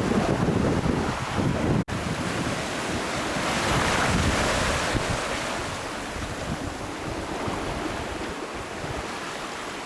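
Wind buffeting the microphone and ocean waves rushing along a sailboat's hull as it runs downwind before an 8 to 10 foot following sea. The wind gusts hardest in the first couple of seconds, the sound cuts out for an instant about two seconds in, and a wave surges loudest about four seconds in.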